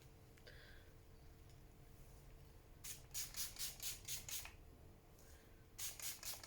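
Heat-protectant spray bottle spritzed onto hair in quick runs of short hissing sprays: about seven in a row a few seconds in, then about four more near the end.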